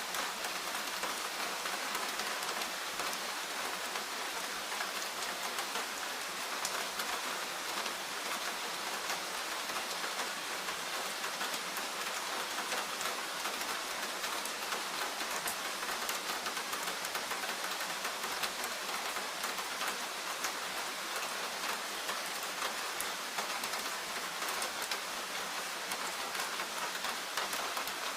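Steady forest rain: an even hiss of falling rain scattered with the small ticks of individual drops.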